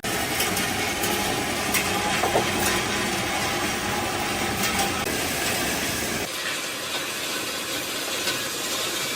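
Steady loud hissing noise from workshop equipment, starting abruptly. The deeper rumble under it drops away about six seconds in, leaving the hiss.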